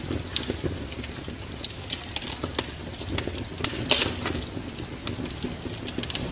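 Wood fire in a fireplace crackling: irregular sharp pops and snaps, a few louder ones about four seconds in, over a steady low rumble of the flames.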